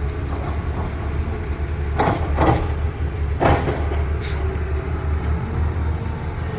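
Heavy diesel engine of an excavator running with a steady low drone. Three short, harsh bursts of noise come about two, two and a half and three and a half seconds in.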